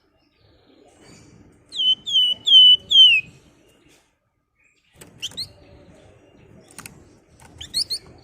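A flamboyan songbird calling: four loud, slurred whistled notes in a quick run about two seconds in, then short rising chirps twice later on.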